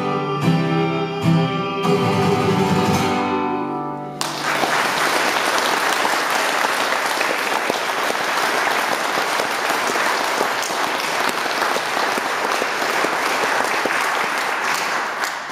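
Acoustic guitar playing the song's closing chords, which ring for a few seconds and then stop. Audience applause breaks out about four seconds in and goes on steadily to the end.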